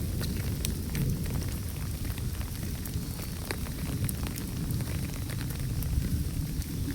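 Steady rain falling, with many scattered sharp drop hits over a dense low rumble.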